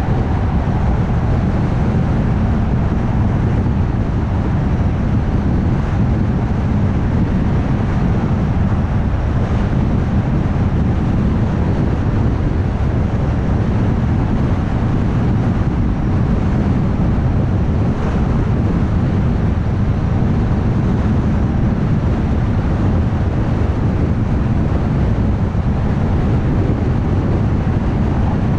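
Steady road noise of a car cruising on a highway: a low rumble of tyres and engine that holds even throughout.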